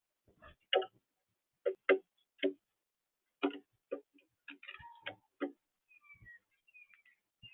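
About a dozen sharp, irregular taps and knocks in the first five seconds or so, then faint high chirps of small birds toward the end.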